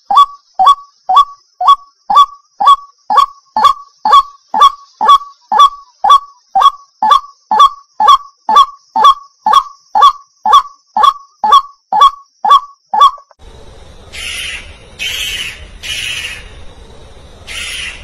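White-breasted waterhen calling: one loud, short, falling note repeated over and over, about two a second, for some thirteen seconds. The sound then cuts to a hissy background with four harsh screeching calls of spotted owlets.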